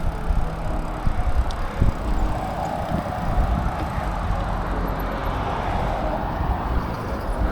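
Riding on a bicycle: wind buffeting the microphone with tyre and road noise, and a rushing noise that swells and fades in the middle.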